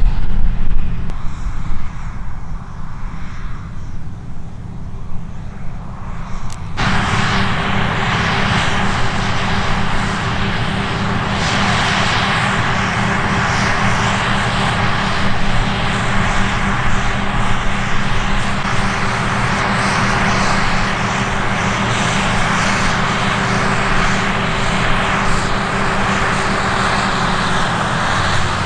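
Heavy diesel farm machinery running steadily with a low rumble. About seven seconds in, a louder hissing machine noise with a steady hum starts abruptly and carries on.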